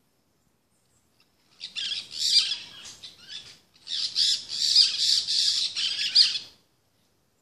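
Parrots giving harsh squawks in two bouts, starting about a second and a half in; the second bout is longer and louder.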